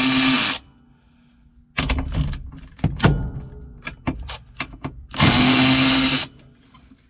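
Milwaukee cordless power tool running in two bursts of about a second each, one at the start and one about five seconds in, as it drives a fastener on the seat mount. Small metallic clicks and knocks come in between.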